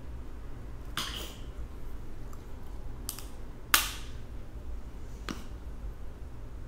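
Crab-leg shells being cracked open: four short sharp cracks, the loudest a little before the four-second mark.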